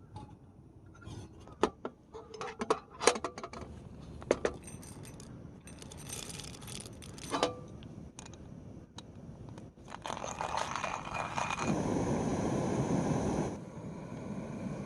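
Small hard objects clinking and knocking in a scatter of sharp taps, one with a brief ring, then a few seconds of steady hissing noise.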